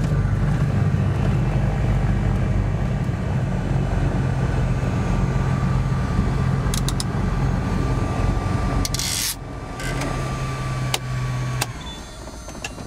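Twin piston engines of a Cessna 310 running steadily, with a few clicks and a short burst of hiss about nine seconds in. Near the end the engine sound and a steady whine stop together and it goes much quieter.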